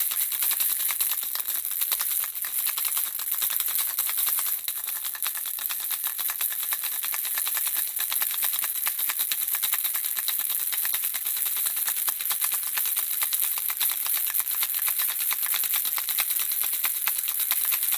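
Baby's handheld rattle shaken continuously: a fast, steady, high-pitched clatter of small beads inside the rattle's shell.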